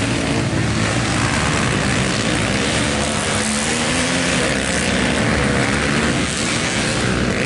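Racing engines running hard on the circuit: a loud, continuous drone whose pitch wavers up and down as the machines rev.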